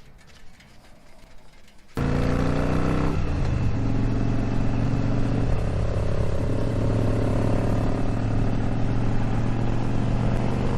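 Harley-Davidson motorcycle engine running at road speed with wind and road noise, starting abruptly about two seconds in. Its pitch drops briefly just after it starts, then it holds a steady note.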